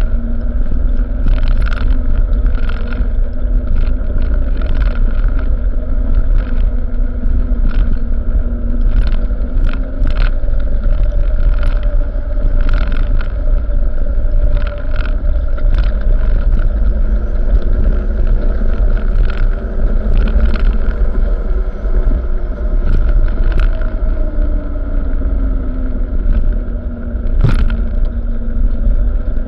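Truck engine running steadily under a heavy low rumble, its pitch drifting slowly up and down, with frequent short knocks and rattles throughout.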